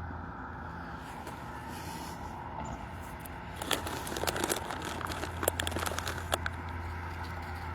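Light crinkling and clicking, as of a snack bag being handled, comes in a cluster of short clicks for about three seconds in the middle. Under it runs a steady low hum of distant traffic.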